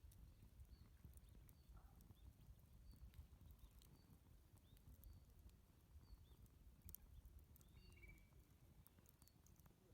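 Very quiet outdoor ambience: a small campfire crackling with scattered faint clicks over a low rumble, and short high bird chirps about once a second.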